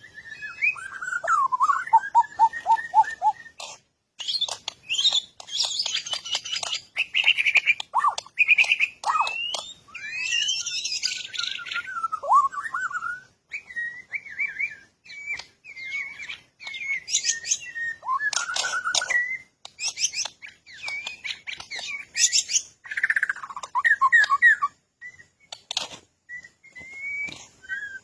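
Songbirds chirping and singing: a fast, varied stream of high whistled notes, trills and rising and falling glides, in phrases broken by short pauses.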